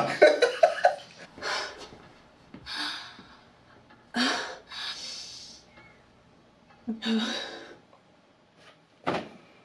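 A person breathing heavily in several separate breaths and gasps, with a short bit of speech right at the start.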